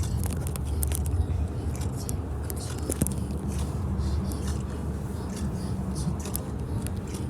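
A car on the move, heard from inside: a steady low road-and-engine rumble, with frequent small clicks and rattles over it.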